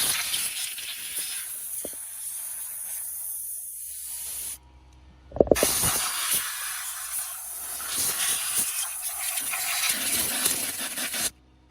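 Compressed air hissing from a nozzle in two long blasts, about five and six seconds each with a short gap between them, blowing dust and debris out of the Ford F150 engine's fuel injector area before the injector is removed. A few sharp knocks come just as the second blast starts.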